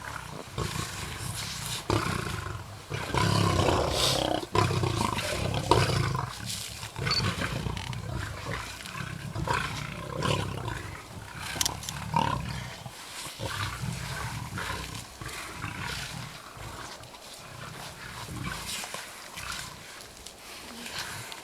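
A pride of lions feeding on a zebra kill, growling at one another over the meat; louder in the first several seconds, then quieter.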